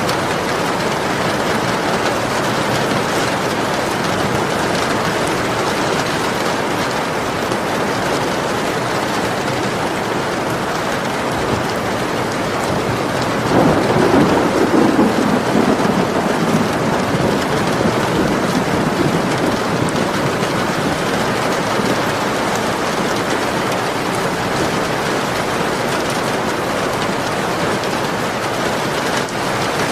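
Steady heavy rain falling, with a roll of thunder that comes in suddenly about halfway through and rumbles away over several seconds.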